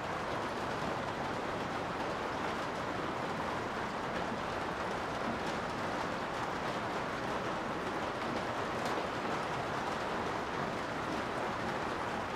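Steady rain heard from inside a garage, an even hiss with a few sharper drip ticks scattered through it.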